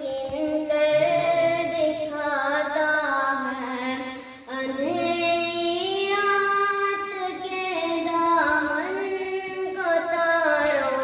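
A single voice singing a hamd, an Urdu devotional hymn in praise of God, in long drawn-out notes that glide slowly up and down, with a brief breath break about four seconds in.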